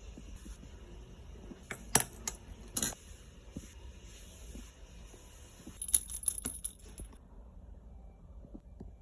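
Small hard objects clicking and clinking: two sharp clicks about two and three seconds in, then a quick run of light clinks about six seconds in.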